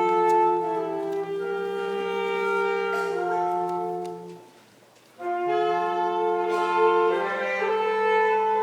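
Wind instruments playing a slow hymn-like piece in sustained chords. The phrase ends about four seconds in, followed by a brief pause, and the next phrase begins about a second later.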